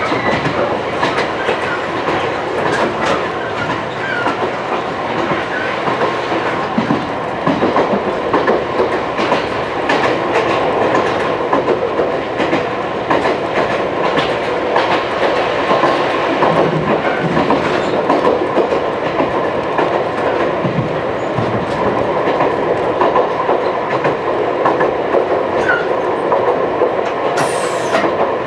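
Wakayama Electric Railway 2270 series electric train running between stations, heard inside a trailer car: a steady rolling rumble with the clickety-clack of wheels over rail joints.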